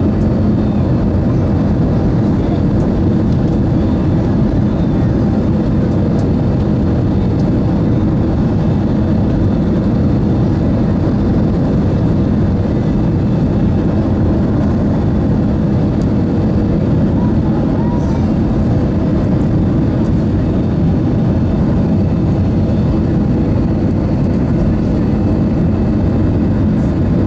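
Steady cabin drone of an Airbus A320-214 with its CFM56 turbofans running, heard from inside the passenger cabin. It is a constant low rumble with a faint steady whine, unchanging throughout.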